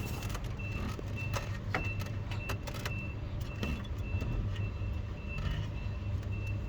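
A steady low hum with a few light metallic clicks, and a faint high electronic beep repeating about twice a second.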